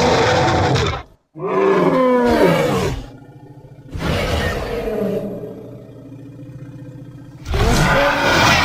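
Designed creature roars for a rogue elephant, made from elephant calls mixed with monster roars: a loud roar breaks off about a second in, a second roar falls in pitch, then a quieter, lower rumbling roar trails off before another loud roar begins near the end.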